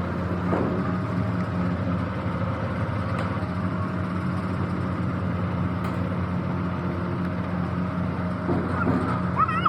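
An engine running steadily with an even hum, with a short high squeal near the end.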